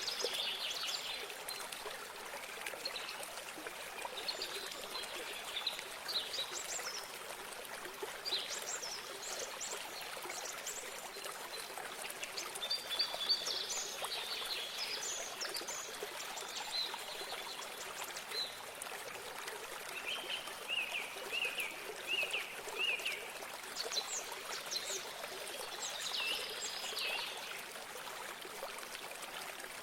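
Steady trickle of running water with small songbirds chirping and singing over it; a run of short repeated notes comes about two-thirds of the way through.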